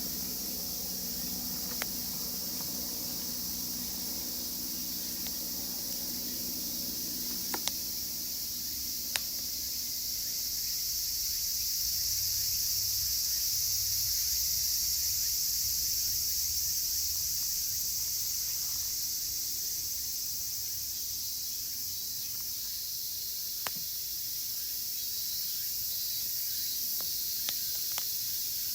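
Dense cicada chorus, higurashi among them, swelling a little in the middle, with a few sharp crackles from a wood campfire.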